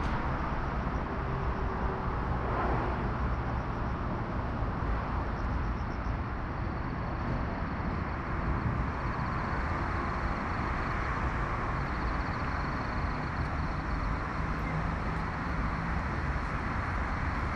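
Steady rumble of distant city road traffic, an even wash of noise with no single vehicle standing out.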